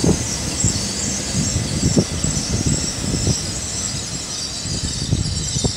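Great Western Railway Class 800 train rolling slowly past as it arrives, with a steady high-pitched squeal over an uneven low rumble.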